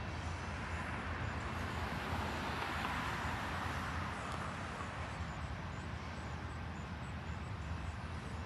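Long freight train rolling past with a steady low rumble, mixed with road traffic whose tyre hiss swells about two to four seconds in.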